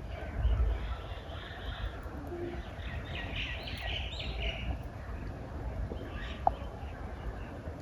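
Birds chirping in bursts, loudest about three to four seconds in, over a steady low rumble of outdoor ambience.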